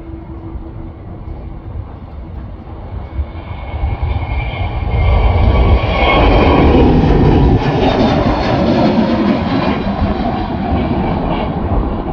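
Jet airliner engines passing close by: the sound swells about four seconds in and peaks near the middle, with a whining tone and a pitch that falls as the aircraft goes past.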